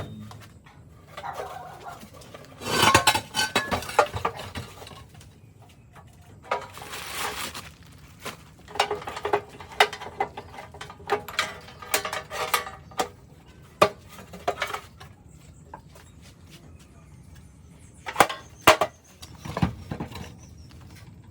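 Metal parts and tools clinking and clattering as they are handled, with many sharp knocks and a couple of longer rattling, scraping stretches.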